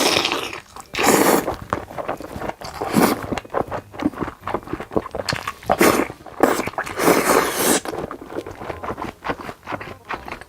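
Close-miked eating: bites, chewing and mouth smacking in irregular noisy bursts, with several louder bites or slurps.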